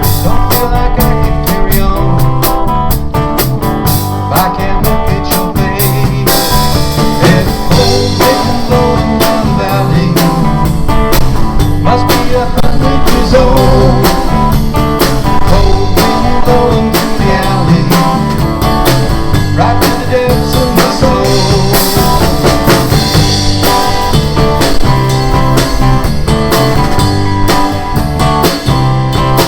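Blues-rock music: guitar over a steady drum-kit beat.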